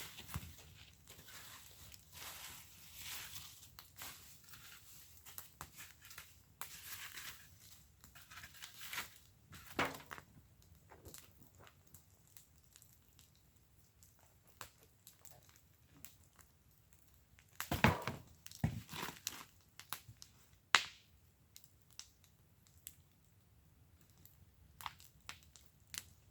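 Wood fire crackling in a fire pit: scattered pops and snaps over a soft hiss, with a cluster of louder pops just past the middle and one sharp snap shortly after.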